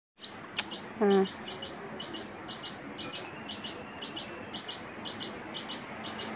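A bird chirping over and over, high notes coming in quick pairs about twice a second. About a second in, a short voice-like sound stands out as the loudest thing.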